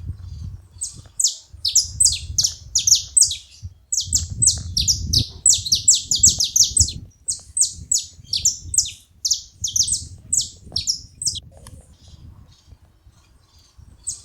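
Saffron finch singing: a fast run of sharp, high, downward-sweeping chip notes that starts about a second in and breaks off about eleven seconds in. A low rumble runs underneath.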